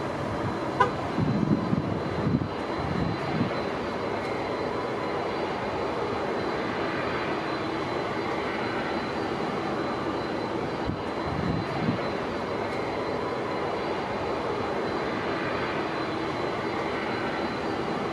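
Jet airliner engines running with a steady roar, with gusts of wind buffeting the microphone a few times.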